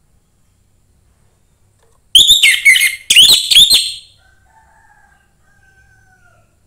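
Orange-headed thrush singing: two loud phrases of rapid, sliding whistles and twittering notes about two seconds in, followed by faint drawn-out whistles.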